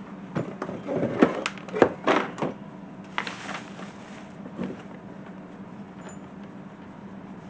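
Knocks and clatter of K&N cold air intake parts being handled and lined up, several quick strikes in the first few seconds, then a short scrape and one last knock. A steady low hum runs underneath.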